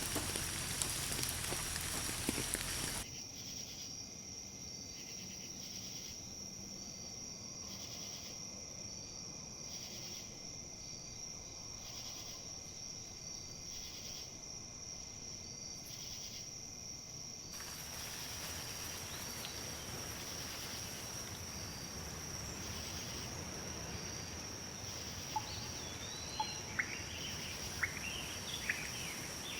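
Steady high-pitched insect trilling over a soft wash of wind in leaves, with brief bird chirps near the end. The first few seconds are louder rain pattering, which cuts off suddenly.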